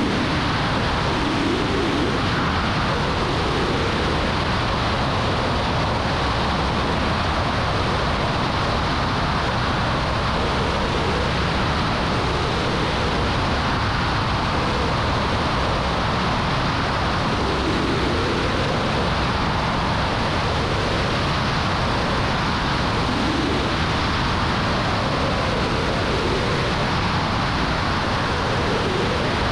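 Light aircraft engine and propeller noise, a steady drone heard from inside the cockpit.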